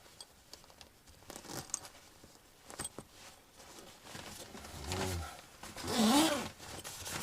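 A zipper being pulled, with rustling of fabric and a short voiced grunt near the end.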